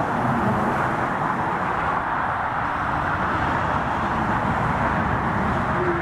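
Steady roar of jet aircraft engines, with a low steady hum coming in near the end.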